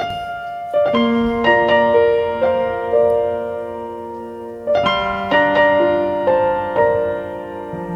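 Piano playing a slow, gentle melody over held chords, each note struck and left to ring and fade, with a new phrase starting about halfway through.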